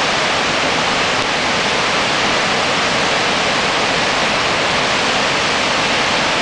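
Steady, even rushing of water with no break.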